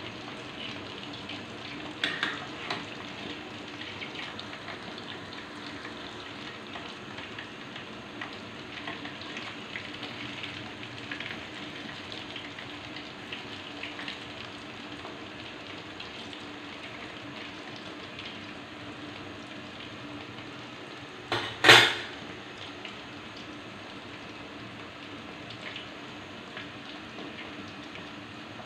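Ketupat palas frying in shallow oil in an aluminium wok: a steady sizzle with small crackles. A metal utensil knocks against the wok a few times about two seconds in, and a loud metal clatter comes about 21 seconds in.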